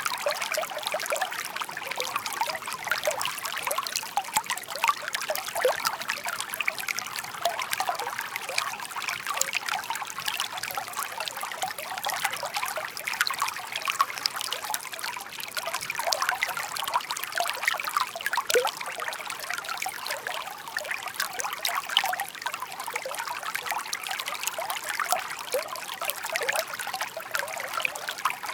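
Shallow stream babbling over stones: a steady trickling and bubbling of running water, with many small gurgles.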